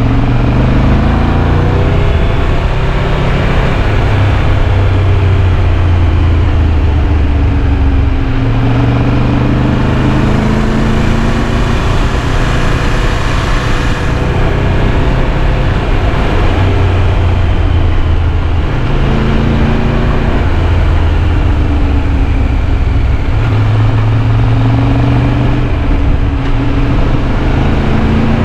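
Triumph Tiger 1200 Rally Pro's three-cylinder engine under way, its revs rising and falling again and again as the bike accelerates and eases off, over a steady rush of wind and road noise.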